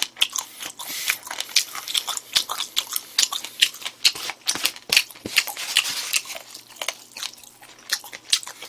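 Close-miked chewing and mouth noises of a person eating spoonfuls of food, with irregular clicks and scrapes of a spoon against a plastic takeout tray.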